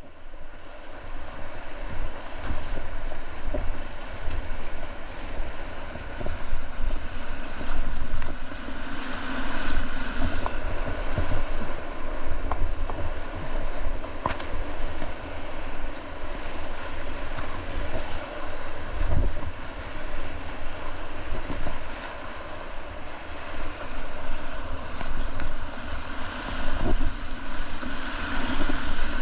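River whitewater rushing and splashing around a kayak, with wind buffeting the microphone as a fluttering rumble underneath.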